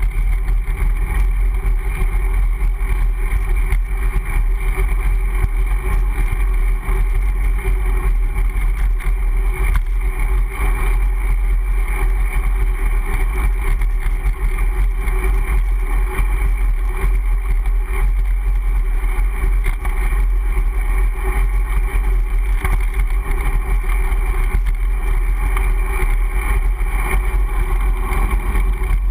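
Steady wind rush and rolling road noise on an action camera riding along on a moving bicycle, with a heavy low rumble throughout.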